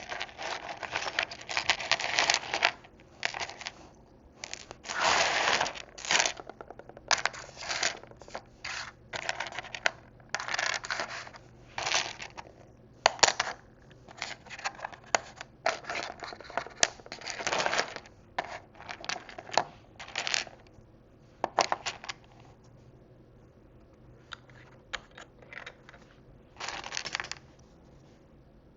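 Small plastic miniature food pieces and tiny dishes being handled and sorted by hand: irregular scratching and rustling, with a few sharp clicks.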